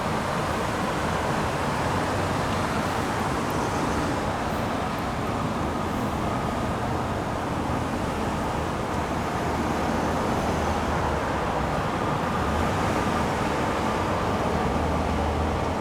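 Steady road traffic noise: vehicle engines and tyres running on the road, with no siren sounding.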